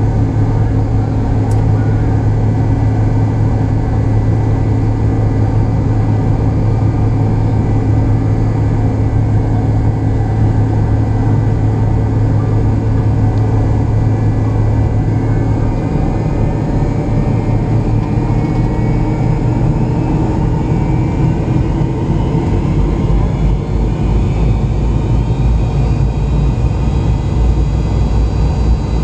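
McDonnell Douglas MD-88's rear-mounted Pratt & Whitney JT8D turbofans running with a steady low hum. From about halfway through, a rising whine joins in and the low rumble grows heavier, as the engines spool up.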